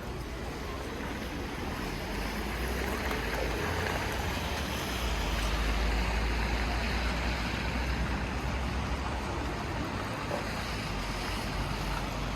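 Outdoor city street noise: a steady rush with a deep rumble that swells about five seconds in and then eases off, as of traffic passing on a busy road.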